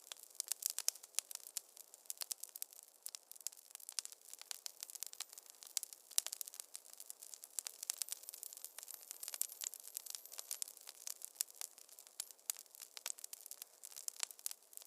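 Wood fire crackling in a fireplace: dense, irregular snaps and pops over a faint hiss, with no low roar of flame.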